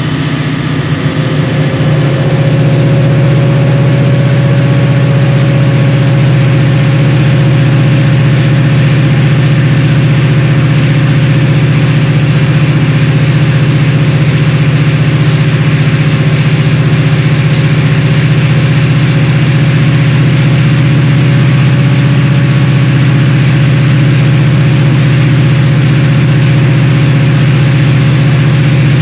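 Unmuffled EMD 645E3C V16 turbocharged diesel locomotive engine running loud and steady. It grows louder about two seconds in, a steady whine coming in above it, and then holds there.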